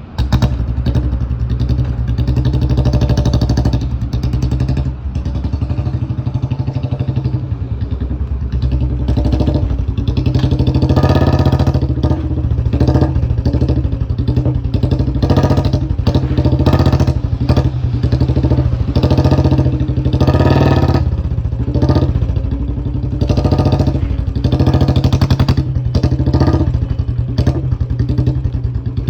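Royal Enfield Bullet 350 old-model single-cylinder engine running through an aftermarket 'pataka' silencer with its steady 'dug dug' thump. It is revved in short bursts many times over.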